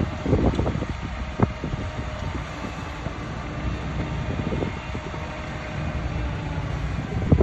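Heavy earthmoving machinery at work: a diesel engine running steadily, with scattered knocks and one sharp knock about a second and a half in.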